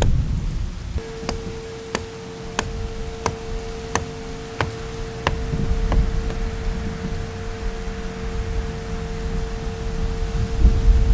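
Low wind-and-rain rumble. About a second in, a steady tone begins and holds. Over it come about eight evenly spaced sharp clicks, roughly one and a half a second, that stop about halfway through.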